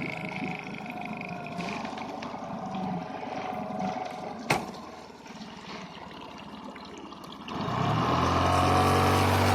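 Honda 9.9 four-stroke outboard motor running slowly and quietly, with a single sharp click about halfway through; near the end the throttle opens and it picks up to a loud, steady run.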